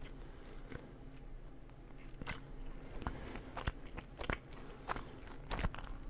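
A person chewing and biting into crunchy food close to the microphone, with sharp irregular crunches scattered through and louder ones in the second half.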